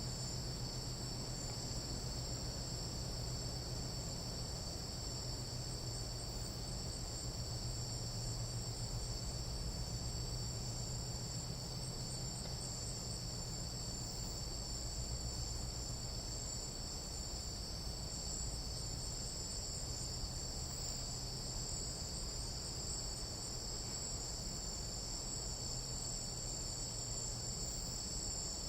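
Tropical jungle night insects calling in a continuous chorus: a steady, unbroken high-pitched trilling at two pitches that holds at a constant level.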